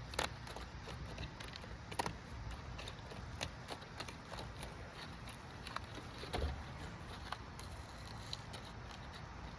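Faint scattered clicks and scraping of material being cut by hand, trimming a homemade HVAC filter to size.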